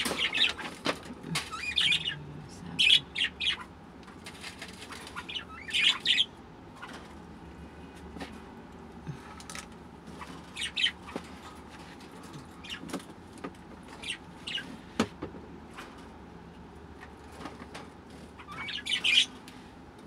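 Pet birds chirping in short high calls every few seconds, with scattered sharp clicks in between.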